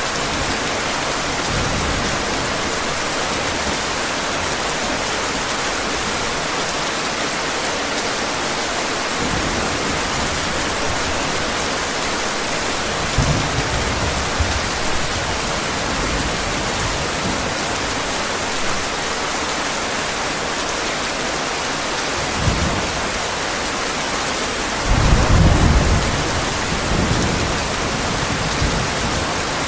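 Steady heavy rain with low rolls of thunder: brief rumbles about 13 and 22 seconds in, and a louder, longer rumble a few seconds before the end.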